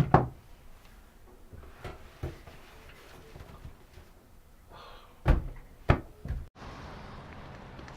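Several thumps and knocks of a door being handled and shut, the loudest two about five and six seconds in. A steady background hiss takes over abruptly near the end.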